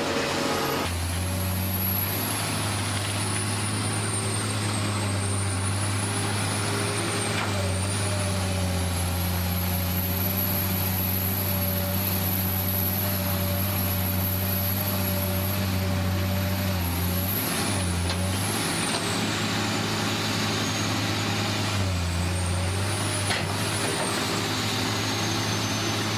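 Radio-controlled model vehicle running: a steady low engine-like drone with a high electric-motor whine that rises and falls as it speeds up and slows. The drone drops out briefly a few times.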